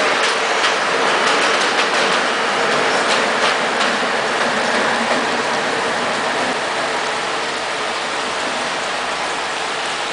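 Train wheels clacking over rail joints as a train passes; the clacks thin out over the first few seconds and a steady rolling rumble slowly fades.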